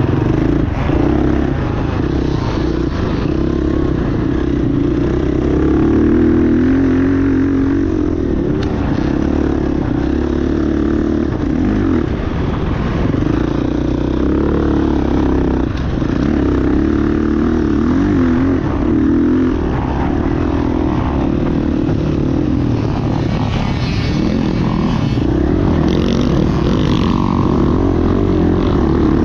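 Motocross dirt bike engines running hard, their pitch continually rising and falling as the riders open and close the throttle.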